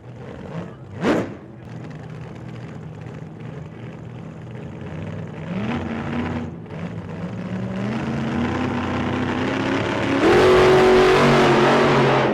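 Racing car engines accelerating, their pitch climbing as they rev up, with a sharp crack about a second in. The engine sound grows louder near the end.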